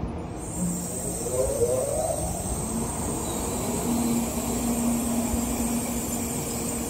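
N700-series Shinkansen train pulling out of the station and gathering speed. Its electric drive gives a rising whine about a second in, then settles into a steady hum over the rolling noise of the train.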